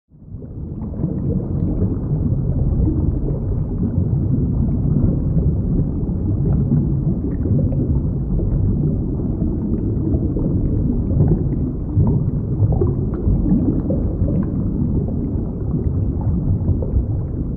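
Underwater ambient noise: a steady low rumble of moving water. It fades in at the start.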